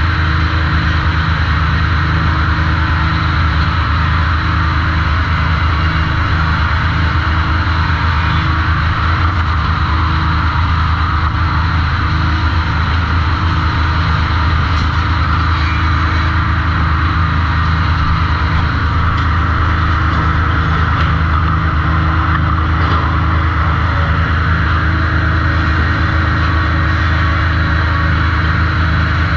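Sawmill machinery running: a loud, steady drone with a deep hum, unbroken and unchanging throughout.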